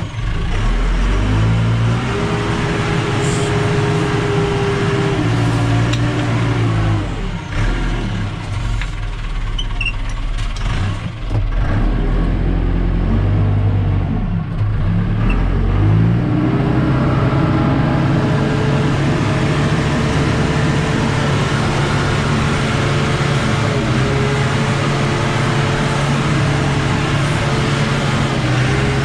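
JCB backhoe's diesel engine working under load, its speed rising and falling as it pushes a brush pile. The note drops low in the middle, then climbs about sixteen seconds in and holds high to the end.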